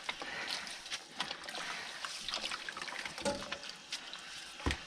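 Water trickling and splashing as a foam air conditioner filter is rinsed by hand, with scattered small clicks and a single sharp knock near the end.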